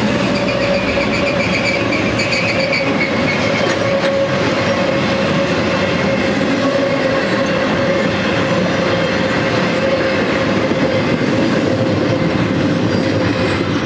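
Double-stack intermodal freight cars rolling past, a steady loud rumble of wheels on the rails with a steady whining tone throughout and higher ringing tones in the first few seconds.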